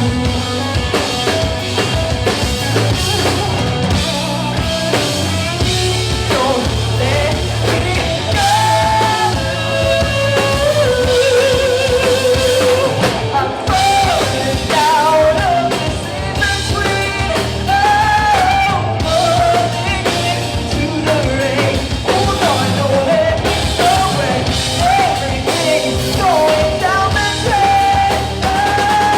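A rock band playing live, with a singer over drum kit and instruments.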